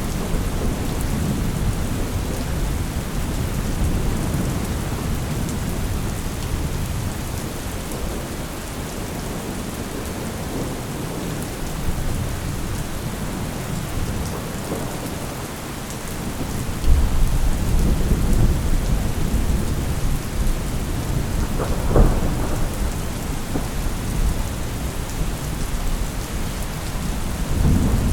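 Thunderstorm: steady rain falling, with deep rolling thunder that swells about two-thirds of the way through and a sharp thunderclap soon after.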